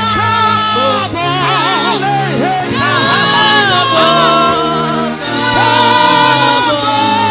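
Gospel music: voices singing with vibrato over sustained keyboard bass notes.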